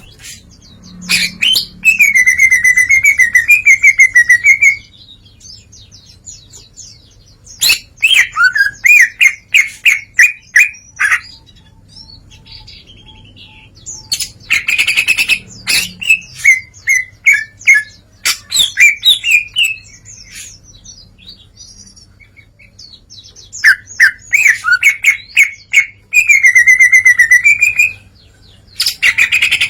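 Green leafbird (cucak ijo) singing in loud bursts of a few seconds each, fast trills and warbling phrases with short pauses between them. It is running through its learned repertoire of mimicked songs (its 'isian').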